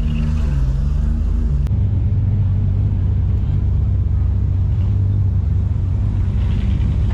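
Car engine running with a loud, deep, steady rumble. About two seconds in it changes abruptly to a denser, lower rumble.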